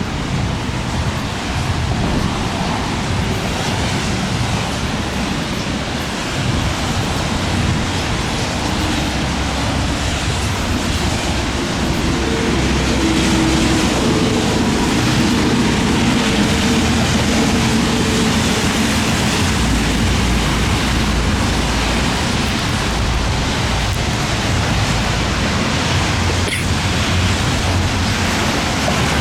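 Steady loud rush of heavy thunderstorm rain and gusting wind, with a deeper low rumble building about two-thirds of the way in.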